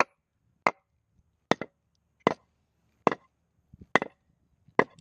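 Small sledgehammer blows, struck at an even pace of a little more than one a second, each a sharp single knock.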